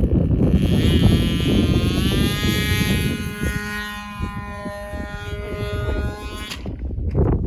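RC model airplane engine running in flight, its pitch bending then holding and slowly dropping as it passes. The engine sound stops abruptly about a second before the end, over wind noise on the microphone.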